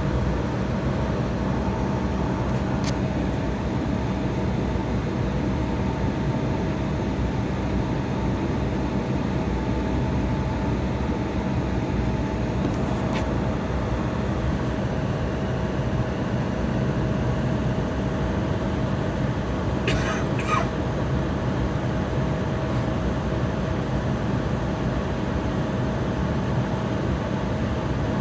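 Jet airliner's engines and cabin noise during taxi, heard from inside the cabin: a steady hum with a steady mid-pitched tone, and a few brief clicks or rattles about 3, 13 and 20 seconds in.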